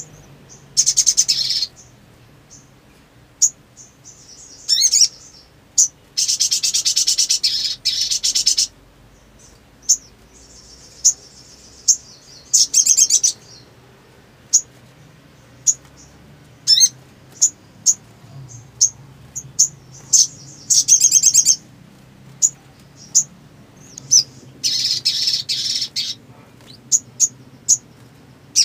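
Sogon (sogok ontong) calling. It gives sharp, high single chirps at irregular intervals throughout, broken by several louder, rapid buzzy trills. The longest trill comes about six to eight and a half seconds in, and others come about one, thirteen, twenty-one and twenty-five seconds in.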